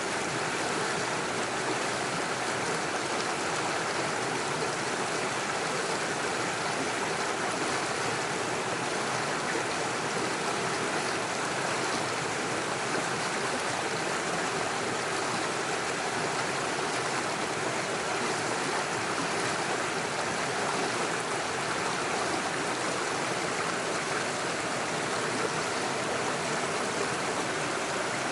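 Small mountain stream running over stones and little waterfalls: a steady rushing and burbling of water.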